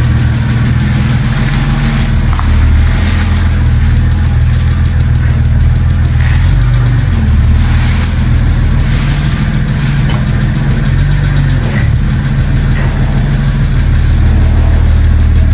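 BMW E90 330i's N52 straight-six engine running at idle, with small shifts in engine speed.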